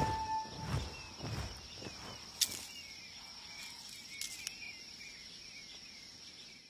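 Outdoor nature ambience: a steady high insect drone with faint chirps beneath it and a few sharp clicks, as the last note of music dies away in the first half-second.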